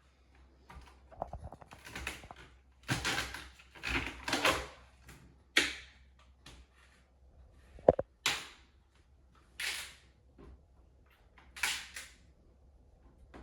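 A knife cutting through celery stalks on a cutting board: a series of separate crisp, crunching cuts with short pauses between them, and one sharp knock of the blade on the board about eight seconds in.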